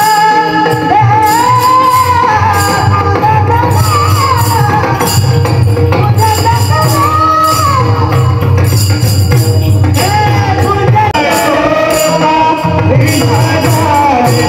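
Marathi devotional abhang singing: one voice sings a gliding, ornamented melody over steady held accompaniment tones, with regular metallic jingling percussion and a low drum beat keeping time.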